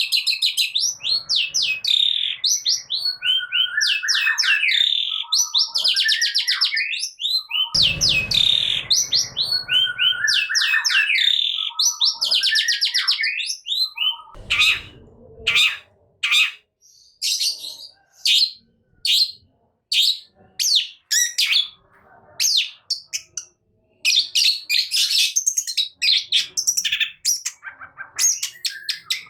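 Long-tailed shrike (cendet) singing hard: a fast, varied run of gliding whistles, rapid trills and harsh notes. About halfway it breaks into a string of short, sharp repeated notes, roughly one a second, before the dense varied song picks up again near the end.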